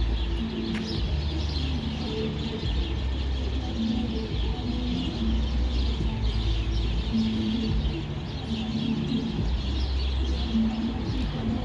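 Many small birds chirping and twittering together in a dense morning chorus, over a steady low rumble.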